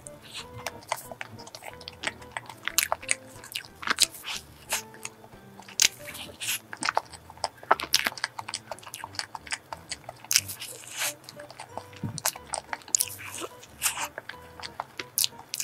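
Close-miked chewing and biting of a soft blueberry cream chiffon sandwich, with many quick wet mouth clicks and smacks at an irregular pace.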